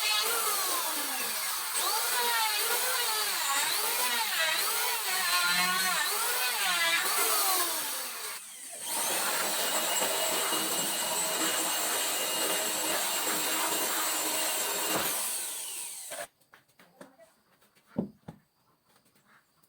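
Mini electric wood saw with a small circular alloy blade running and cutting wood, its pitch rising and falling as the blade takes the load. It drops briefly about eight seconds in, runs on steadily, then stops about sixteen seconds in, followed by a few faint knocks.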